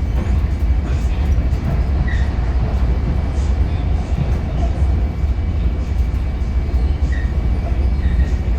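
Long Island Rail Road commuter train running at speed, heard from inside the passenger car: a steady low rumble with rail and wheel noise.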